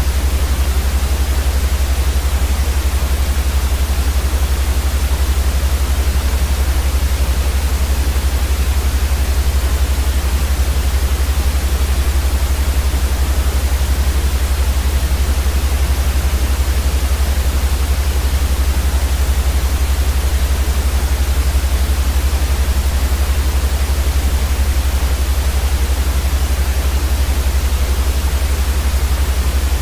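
Steady white noise for baby sleep: an even, unchanging hiss across all pitches with a strong low rumble underneath.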